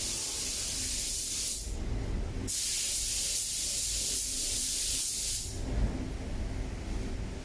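Paint being sprayed onto car body panels: two spells of spray hiss, the first stopping after about a second and a half and the second starting a second later and running about three seconds, with a low steady rumble underneath.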